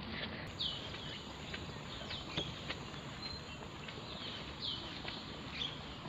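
A bird calling repeatedly in short, high, downward-sliding notes, about one every second, over steady outdoor background noise, with scattered footsteps on a paved path.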